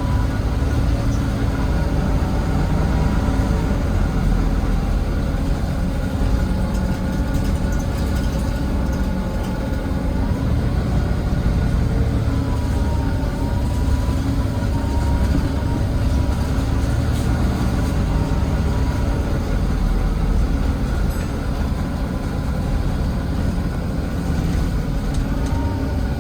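Volvo D9B diesel engine of a Volvo B9TL double-decker bus running under way, heard on board from the back seat, a steady low rumble. A higher whine rises and falls in pitch now and then, about halfway through and again near the end.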